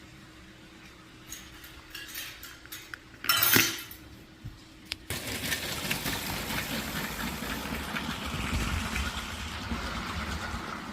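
A Lego train running on plastic track: a few light plastic clicks and a short loud clatter, then from about halfway a steady rattling clatter of the wheels and cars over the track.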